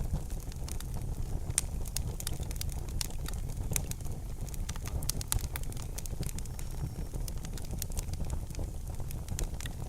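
Fire crackling in a fireplace: frequent irregular sharp pops and snaps over a steady low rumble of the burning fire.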